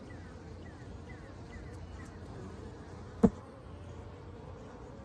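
Honeybees buzzing in a steady hum, with a single sharp knock a little over three seconds in.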